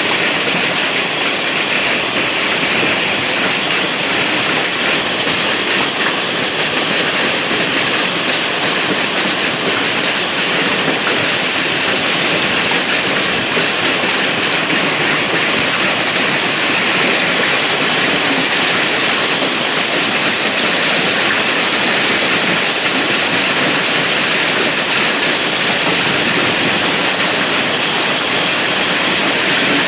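Hailstorm: hail and heavy rain pelting down, a loud, dense, steady noise.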